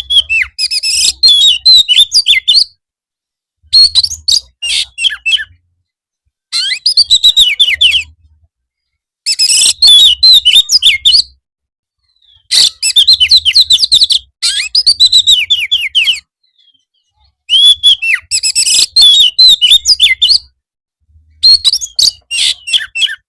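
Oriental magpie-robin (kacer) singing in full, energetic song: quick phrases of rapid, varied whistled notes, seven in all, each lasting about two seconds and separated by short silent pauses.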